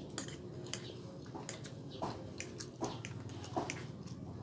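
Close-miked chewing and wet mouth sounds of a man eating pancit canton instant noodles, with a few sharp clicks about two, three and three and a half seconds in.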